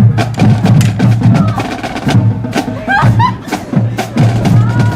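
A band's percussion section playing a driving rhythm: a pulsing low drum beat under rapid, sharp stick or wood-block clicks.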